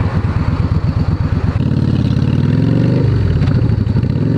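Motorcycle engine pulling away through the gears. The engine note climbs, drops sharply about three seconds in at a gear change, then climbs again.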